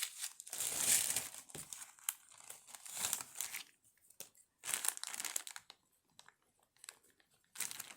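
Crinkly plastic packaging being handled, rustling in several irregular bursts with short quiet gaps.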